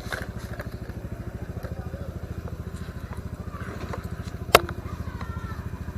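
Motorcycle engine running steadily at low revs with an even, fast low pulse. A single sharp click or knock sounds about four and a half seconds in.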